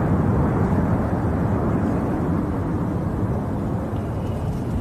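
Deep, steady roar of a C-17 Globemaster III's four turbofan engines at takeoff power, slowly fading.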